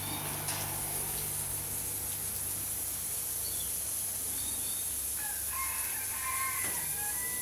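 Birds calling: faint short chirps in the middle, then from about five seconds in a few drawn-out, pitched calls, over a steady high hiss.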